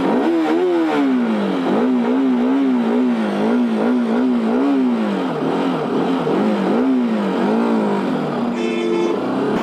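Motorcycle engine on a Bajaj Pulsar RS 200 being revved over and over, its pitch rising and falling about twice a second. The bike has just been push-started on a run-down battery.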